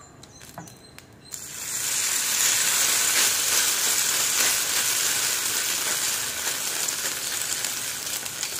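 Egg-and-noodle omelette batter hitting hot oil in a pan about a second in, then sizzling loudly and steadily as it fries, easing off slightly near the end.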